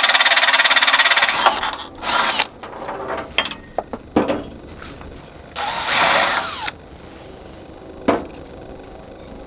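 Power drill boring into the hollow steel arm of a tractor loader, opening up a hole with a slightly bigger bit so a tap will go in easier. It runs steadily for almost two seconds, then in short bursts, the last winding down in a falling whine. A single click follows near the end.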